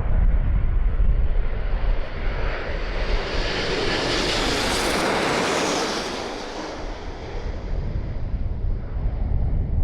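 Airliner's engines passing low overhead on approach to land. The noise swells, is loudest about halfway through, then fades, with wind rumbling on the microphone throughout.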